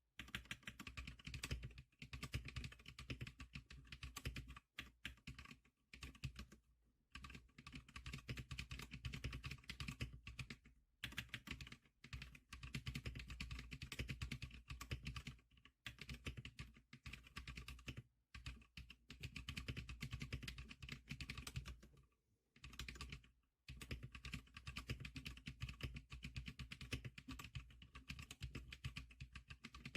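Typing on the Zclicker SPK100 keyboard: fast runs of keystroke clicks separated by short pauses.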